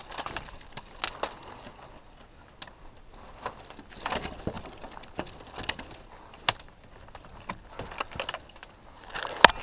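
A player's footsteps with gear rattling: irregular sharp clicks and snaps, the loudest one near the end.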